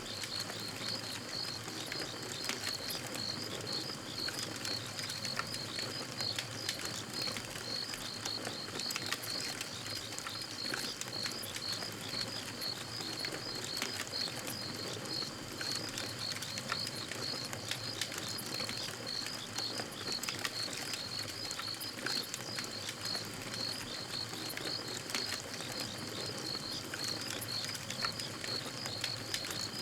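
Campfire crackling with scattered sharp pops, under the steady fast chirping of night insects on one high note that never lets up.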